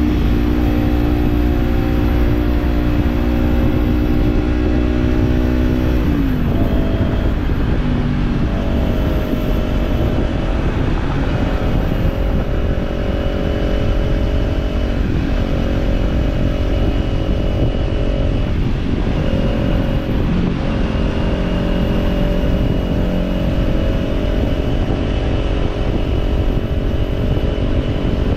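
Kawasaki parallel-twin motorcycle engine with a slip-on exhaust, running at a steady cruise. Its pitch falls about six seconds in and then shifts up and down in steps several times, over a steady rush of wind on the camera microphone.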